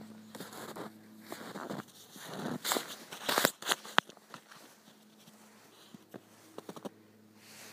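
Close contact noise on a phone's microphone: irregular rubbing scrapes, crackles and taps, loudest a little after three seconds in, with a sharp knock at about four seconds, over a faint steady hum.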